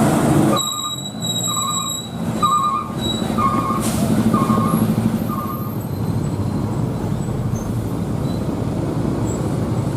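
Heavy trucks' diesel engines rumbling steadily while an electronic beeper sounds about six times at an even pace, typical of a truck's reversing alarm. A short hiss, like an air brake, comes about four seconds in.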